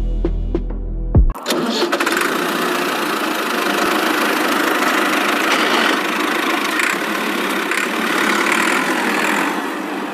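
Background music for about the first second, then a sudden cut to the small electric motor and gears of a DIY model tractor running steadily with a dense, rattly whir.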